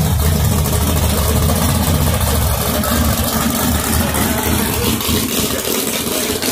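Drag race car's engine idling loudly with a deep, low rumble as the car creeps along. The rumble eases off a little near the end.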